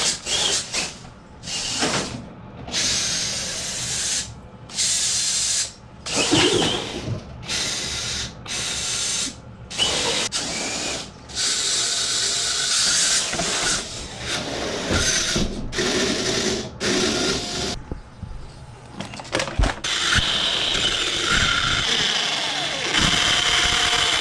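SMT10 RC monster truck's electric motor and drivetrain revving in many short bursts with gaps between, running more steadily near the end; the pinion gear is completely stripped.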